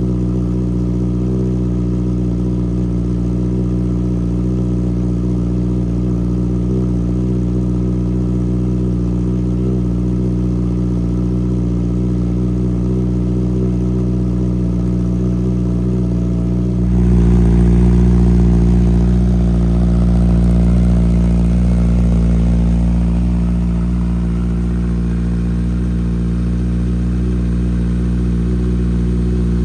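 Honda CB650R's inline-four idling through a CS Racing full-system exhaust with no dB killer, shortly after a cold start. About two-thirds of the way through the sound suddenly gets louder and fuller, then settles back over several seconds.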